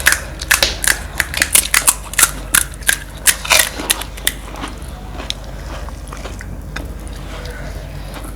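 Crunching and chewing of crisp Nepali street food (panipuri shells, chatpate): a quick run of sharp crunches over the first four seconds or so, thinning to occasional clicks after.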